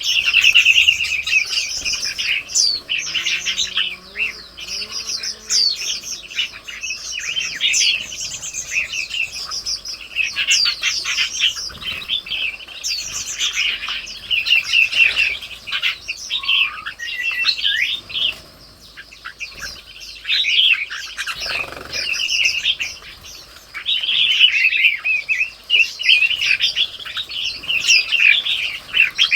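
A chorus of songbirds chirping and trilling, many short overlapping calls, with a brief low rush about two-thirds of the way through.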